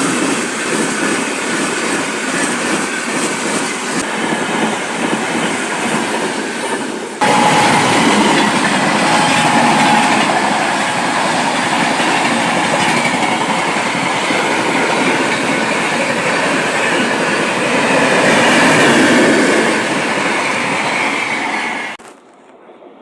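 A train passing close by at speed, with the continuous rumble and clatter of its wheels on the rails. The sound steps up abruptly about seven seconds in and falls away sharply near the end.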